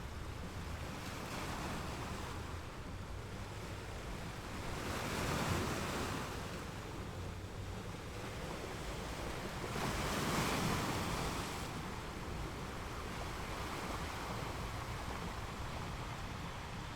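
Ocean waves breaking on a beach, two waves surging up about five and ten seconds in, over a steady low rumble of surf.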